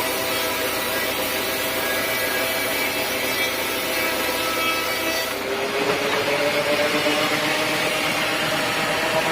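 Power saw cutting teak wood. About five and a half seconds in, the cutting hiss drops away and the saw's whine slowly rises in pitch as the blade runs free and speeds back up.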